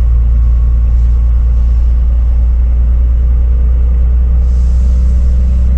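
Scania Super truck's six-cylinder engine braking with its compression brake engaged on the first retarder step, a loud steady low drone heard from inside the cab.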